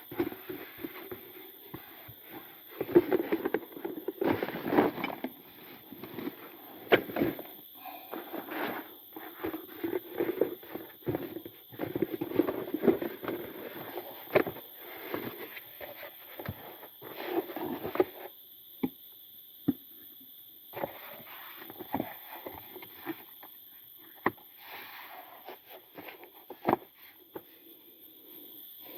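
Irregular knocks, clicks and scraping rustles of objects being handled, busiest in the first half and sparser after, over a steady high-pitched whine.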